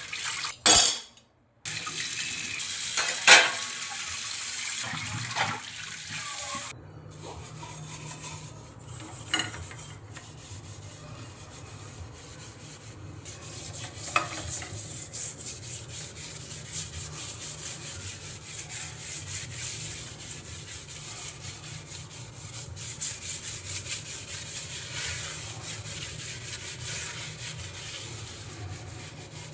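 Water running and splashing at a sink, broken by two short cuts early on. From about halfway, a quick, even run of rubbing strokes, like scrubbing, takes over.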